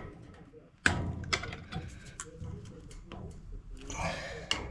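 Scattered light clicks and ticks from handling tools or parts, with one sharp click about a second in and a brief rushing noise near the end.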